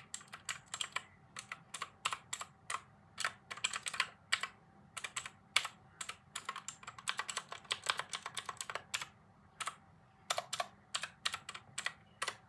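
Typing on a computer keyboard: irregular runs of crisp keystrokes with short pauses between them.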